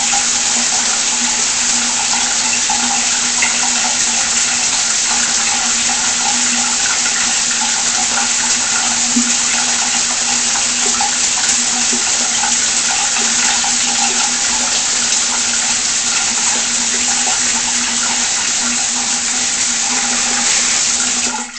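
Water spraying steadily from a light-up shower head, an even full hiss with a faint steady hum beneath it. It cuts off abruptly at the very end.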